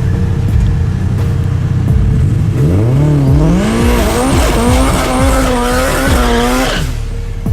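A car engine accelerating hard. Its pitch climbs for about a second, then holds high and wavering with a hiss over it for about three seconds before stopping abruptly, over a low rumble.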